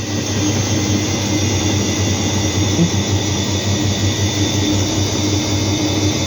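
Bosch washing machine in its spin cycle, the drum spinning at high speed: a loud, steady hum with a rushing noise over it, building a little in the first half-second and then holding level.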